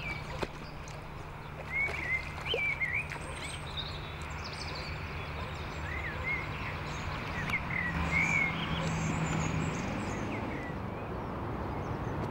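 Birds chirping on and off in short, pitch-bending calls over a steady low hum and outdoor background noise.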